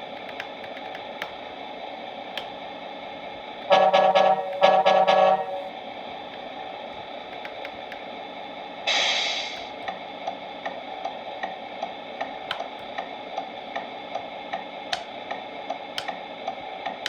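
Synthesized truck sounds from a Tamiya MFC-03 sound unit in a 1/14 Scania R620 RC truck, played through its small speaker. Over a steady diesel-idle hum there are two blasts of the air horn about four seconds in. A short hiss of released air comes about nine seconds in, then indicator ticking at about two ticks a second.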